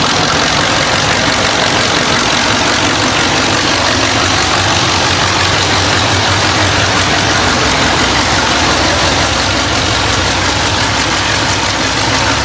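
Demolition derby car's engine running loud and steady, a dense mechanical rumble with a hissy, noisy edge.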